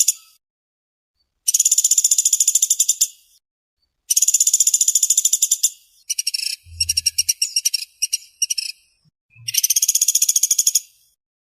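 Woodpecker (pelatuk sampit, also called pelatuk beras) giving fast, tightly packed rattling trills. There are four bursts, each one to two seconds long with short pauses between them; the third is choppier and broken into short runs.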